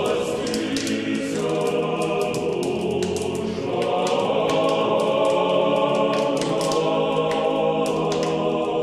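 A choir singing slow, sustained chords, with a change of chord about three and a half seconds in.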